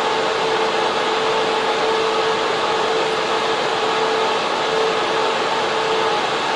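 Server room cooling fans running steadily: a loud, even rush of air with a steady hum tone over it.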